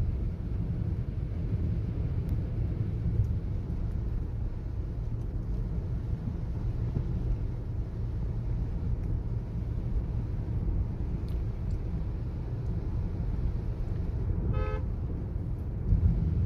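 Steady low rumble of a car on the move, with one short horn toot near the end.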